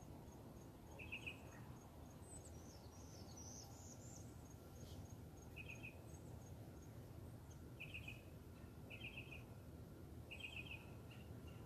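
Faint birdsong: a short trilled call repeated several times, with one brief higher, falling phrase a few seconds in. Under it is an evenly paced high ticking, like an insect, that fades out partway through, and a steady low rumble.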